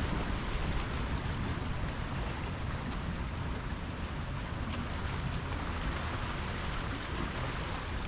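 Pacific surf washing steadily against the shore, with a low wind rumble on the microphone.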